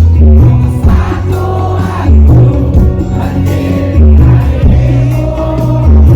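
Loud live campursari music played through a concert PA, with a sung melody and heavy bass beats that swell about every two seconds; many voices sing along.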